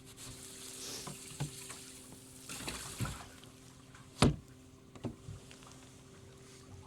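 Water splashing and knocks against a fishing boat, over a steady low hum; one sharp, loud knock about four seconds in, with smaller knocks around it.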